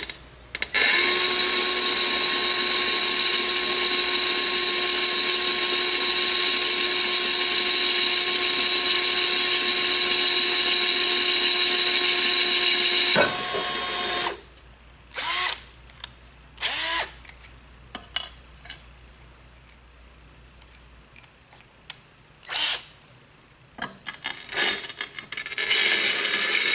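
Electric drill boring porcelain tile with a carbide-tipped tile bit, a steady whine with a grinding edge that winds down and stops about halfway through. A few brief short sounds follow, and then steady drilling starts again near the end.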